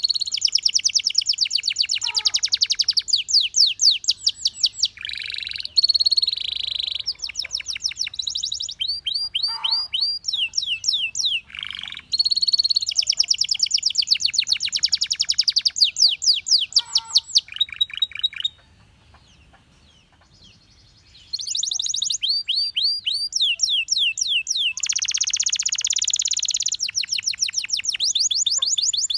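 Belgian canary singing: long runs of fast repeated notes in rapid trills and rolls, changing from one run to the next, with a pause of about three seconds a little past the middle.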